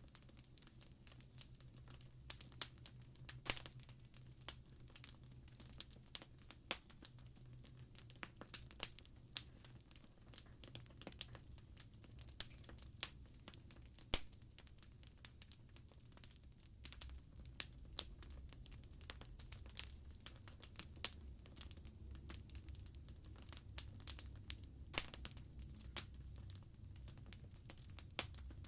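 Wood fire crackling: irregular sharp pops and snaps, a few a second, over a low steady rumble of the flames.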